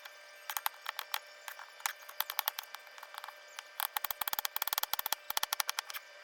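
Kitchen knife chopping celery on a cutting board: sharp, quick chops in fast runs, busiest in the second half, as the celery is finely diced.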